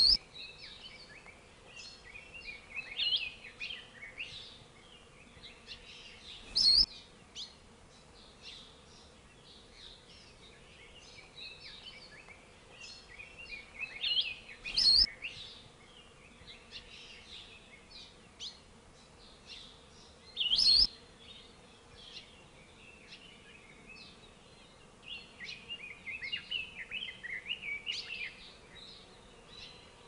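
Hawaiian forest birds chirping and calling, with a short, loud, sharp call four times, about every six to eight seconds, over scattered softer chirps, and a denser run of chirping near the end.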